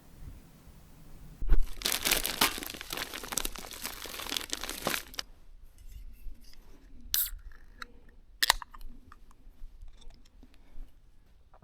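Crinkling and tearing of something crisp, like packaging, for about three and a half seconds from about a second and a half in, then scattered sharp clicks and handling noises.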